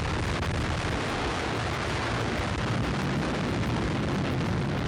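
Hydrogen bomb test explosion: a long, steady rumble of blast noise, heaviest in the low end.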